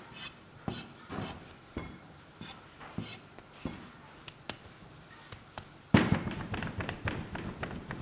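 Scattered knocks and taps, then a sudden loud knock about six seconds in followed by rapid, even tapping.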